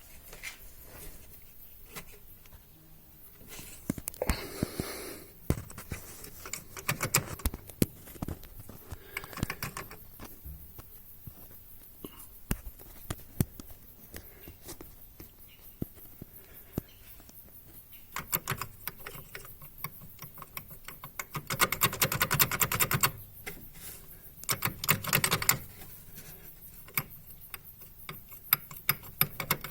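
Ringing, clattering knock from under the bonnet of a second-generation Kia Sportage / Hyundai Tucson diesel: irregular sharp clicks that come in several dense rattling runs lasting a second or two, the loudest about two-thirds of the way in. The fault the owner was hunting shows up as this ringing knock at low revs.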